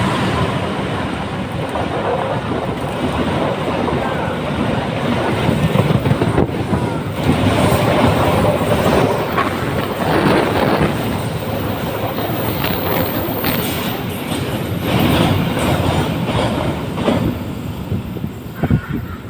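A train passing close by: a steady loud rumble of wheels on rails with many short clicks, growing quieter near the end.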